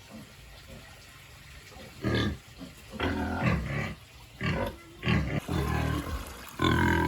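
Pigs calling in short bursts of grunts and squeals, starting about two seconds in and recurring roughly every second.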